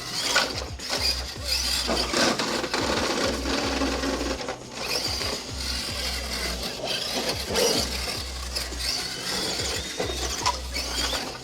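Axial SCX10.2 electric RC crawler's drivetrain whirring and clattering as it is driven hard, with the gears rattling irregularly. Background music with a pulsing bass plays underneath.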